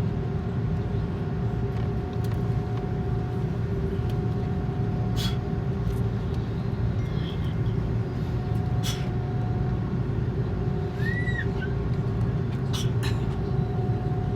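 Steady low hum and rumble of an Airbus A330 airliner, with a constant droning tone, broken by a few short clicks and a brief squeak about eleven seconds in.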